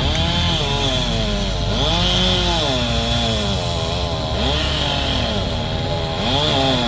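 Two-stroke chainsaw running at high revs in a cut, its engine pitch repeatedly dropping and rising again, over a steady high whine.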